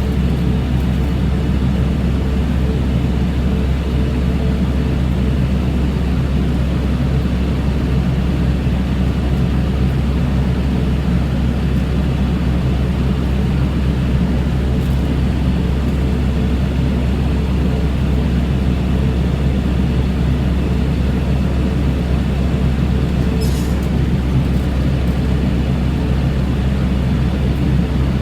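Tractor engine running steadily with a loud, constant low drone.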